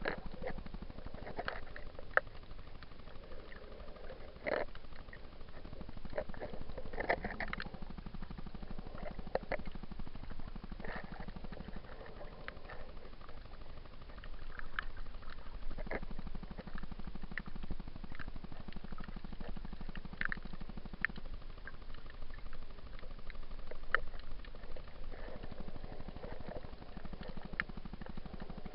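Muffled underwater sound heard through an action camera's waterproof housing: a steady low rumble of water movement with scattered clicks and short gurgles.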